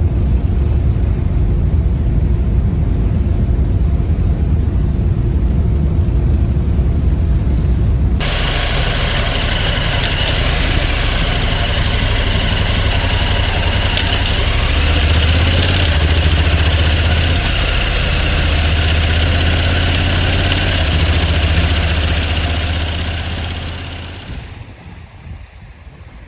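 An engine running with a steady low rumble. About eight seconds in, the sound changes abruptly to a louder engine note with a strong hum and a hiss over it, which fades away near the end.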